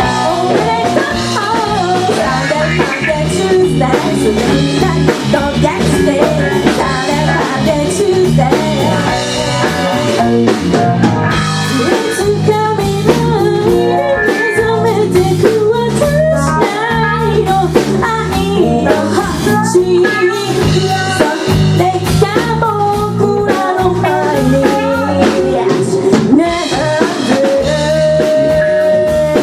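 Live rock band performing a song: a lead vocal sings over electric guitar and a drum kit keeping a steady beat, with a long held note near the end.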